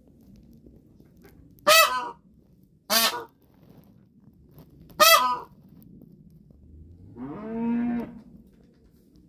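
Goose honking: three loud, harsh honks, then a lower, longer call near the end.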